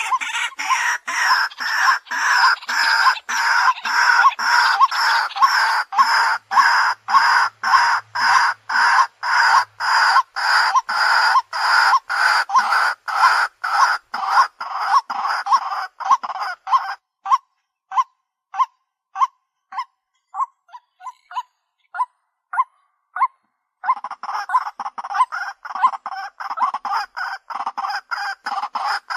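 White-breasted waterhen calling: a long run of loud, evenly repeated call notes about two a second. About two-thirds of the way through, the calls thin to short, scattered notes for several seconds, then the full calling resumes.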